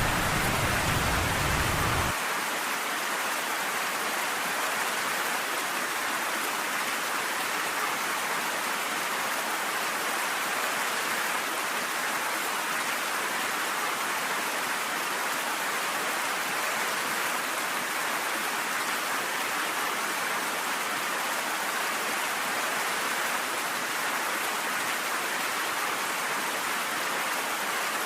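Steady rain, an even hiss with no breaks. A low rumble underneath cuts off abruptly about two seconds in.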